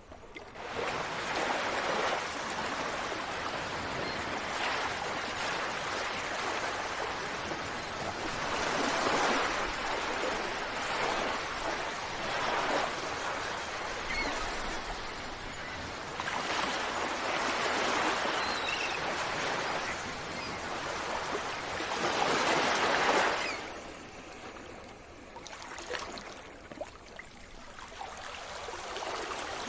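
Sea waves breaking and washing up on a shore. Each surge swells and fades every few seconds, and the sound drops suddenly to a quieter wash a few seconds before the end.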